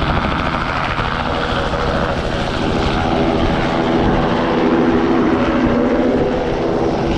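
Helicopter running close by, its rotor and turbine making a loud, steady sound with a fast low beat throughout.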